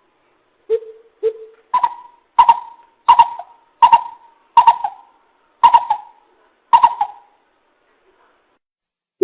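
Coucal (bìm bịp) calling: a slow series of nine hollow hooting notes, the first two deep and the rest pitched higher, spaced a little further apart toward the end.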